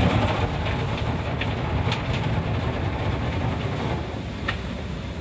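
Automatic car wash running: a steady rumbling noise with a few light clicks, slowly getting quieter.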